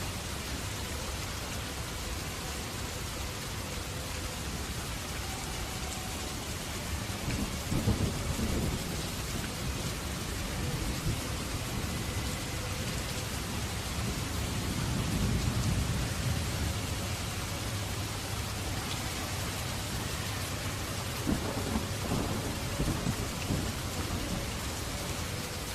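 Steady rain falling, with rolls of thunder rumbling low three times: about a quarter of the way in, in the middle, and again near the end.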